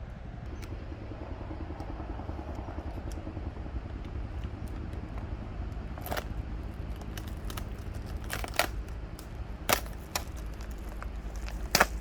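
A steady low hum with several sharp knocks and clicks over it, the loudest coming late on.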